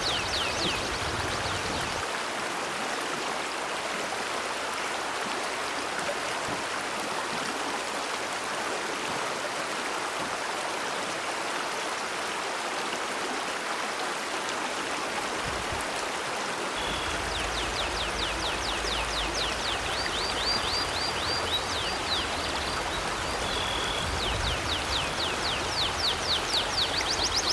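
River water flowing in a steady rush. Near the start and again from about two-thirds of the way in, a bird chirps in fast, repeated high trills over the water.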